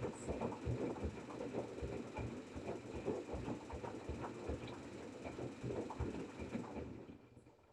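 LG washing machine running, with irregular knocks and thumps over a steady mechanical noise that dies away about seven seconds in.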